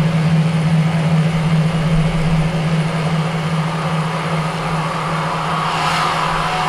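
A steady low hum held on one pitch over a dense noisy wash, with a wavering higher tone swelling in near the end.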